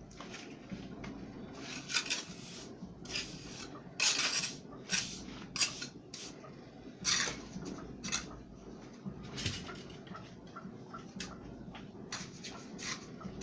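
Metal trowel scraping and spreading wet cement on a concrete floor, in irregular short strokes about once a second.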